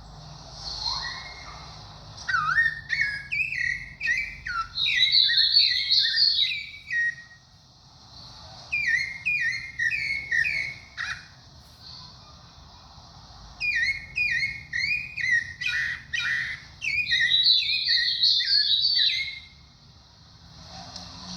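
Sabiá thrush singing three phrases of quick, repeated down-slurred whistled notes with short pauses between them, the longest phrase last. A steady high hiss runs underneath.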